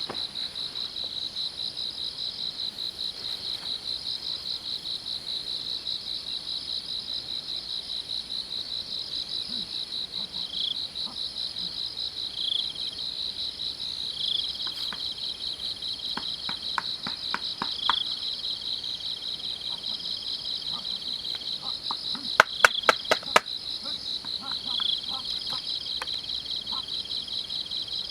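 Insects trilling in a steady, high, rapidly pulsing chorus, with a short chirp repeating every couple of seconds. Two runs of sharp clicks come through it, one around the middle and a louder one about four-fifths through.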